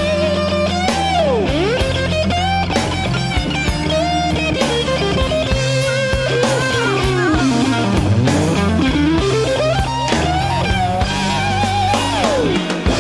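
Blues-rock band playing an instrumental passage: a lead electric guitar solos with string bends, long sliding glides down and back up, and vibrato, over bass and drums.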